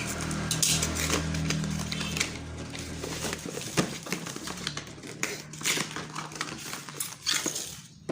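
Hands unpacking a mini grinder kit: plastic case and packaging handled, with irregular clicks, taps and rustling. A low steady hum runs underneath and stops about three and a half seconds in.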